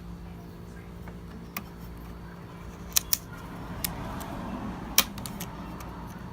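Several sharp clicks and taps of hard parts being handled during iMac disassembly, over a steady low hum, with a brief rustle between them. The loudest clicks come about three and five seconds in.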